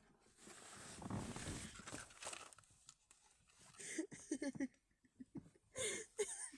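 A soft rustle, then a person's short wordless vocal sounds, twice.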